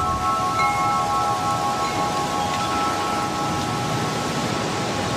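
Chimes ringing in several held tones over a steady rain-like hiss; the chime tones fade away near the end while the hiss carries on.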